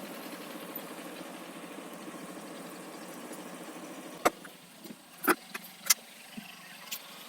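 Motorcycle engine running steadily, dropping away a little after four seconds in, followed by a few sharp clicks and knocks.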